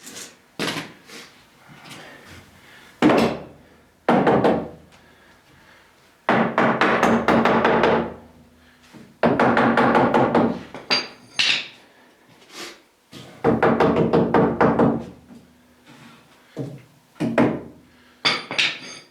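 Cordless power drill working into 2x2 lumber in several runs of about two seconds each, with short bursts and knocks of wood being handled between them.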